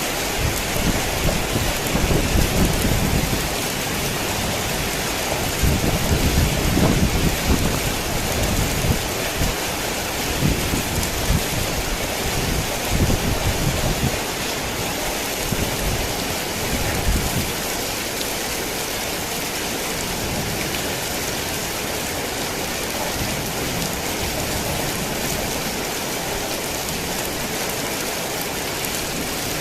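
Heavy rain falling steadily, with thunder rumbling low under it for roughly the first fifteen seconds before it dies away, leaving the rain alone.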